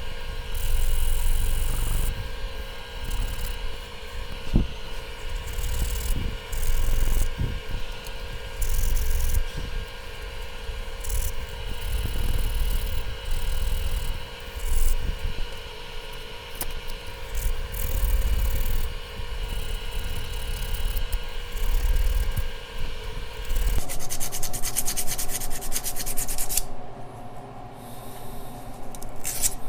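Sandpaper being rubbed by hand on the metal mating surface of a turbocharger housing, in irregular strokes of varying length. Under it is a steady hum of several tones, which changes about three quarters of the way through.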